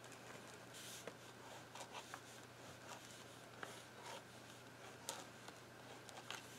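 Faint, scattered scratching strokes and light ticks of a drawing tool working on paper, over a steady low hum.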